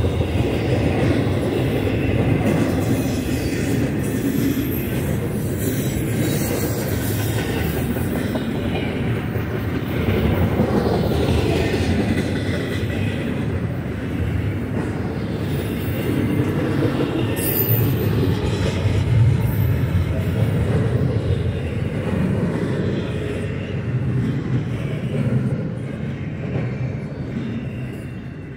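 Double-stack intermodal freight train rolling past on the rails: the steady noise of its wheels and cars, dying away over the last few seconds as the end of the train goes by.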